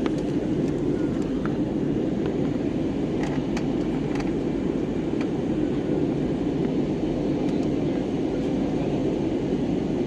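Steady engine and airflow noise inside an airliner cabin in flight: a low, even rumble, with a few faint clicks about three to four seconds in.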